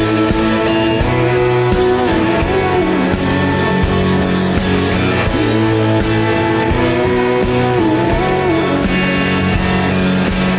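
A rock band plays live through an instrumental passage. A lead guitar line slides and bends between notes over steady bass and chords.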